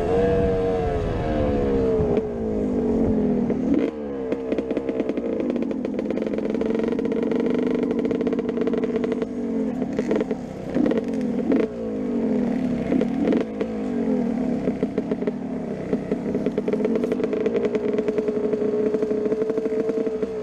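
Two-stroke motocross bikes racing, their engines revving up and dropping back again and again through the gears and corners, several engines overlapping.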